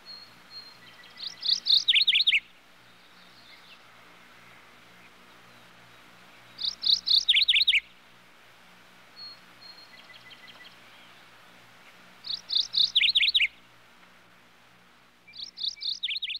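Bird chirping: a short phrase of quick high notes followed by falling whistles, repeated four times about every five seconds, with softer single notes between the phrases. A faint low hum runs underneath.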